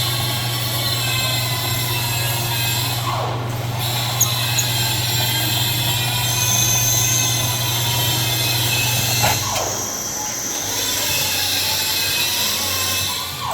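Drill running steadily while drilling steel, a constant motor hum with a metallic squeal. The hum drops away about three-quarters of the way through.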